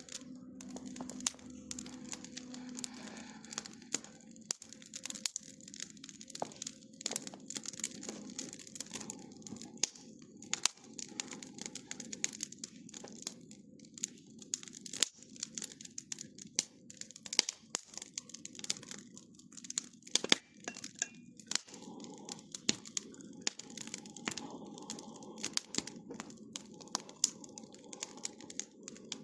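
Bonfire crackling: many irregular sharp pops and snaps over a steady low rushing noise.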